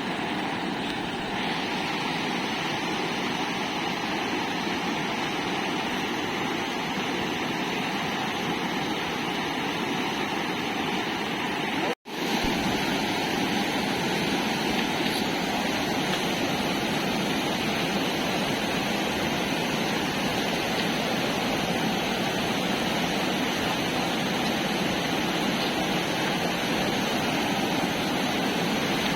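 Steady rushing of a fast-flowing flooded river, an even roar of water, broken by a momentary dropout about twelve seconds in.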